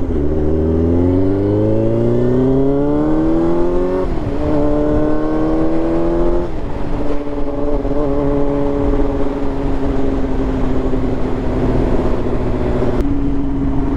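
Motorcycle engine accelerating, its pitch rising through two gear changes about four and six and a half seconds in, then holding steady at cruising speed.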